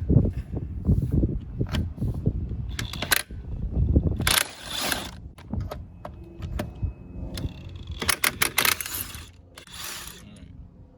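Scattered metallic clinks and scrapes of lug nuts being spun off by hand and a car wheel being pulled off its hub, with low rumbling handling noise at the start and a few brief rattly bursts later on.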